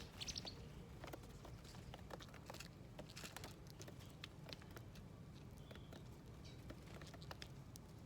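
Faint, irregular tapping and clicking of small birds pecking at seeds on a garden feeder plate, with a short burst of high chirps right at the start.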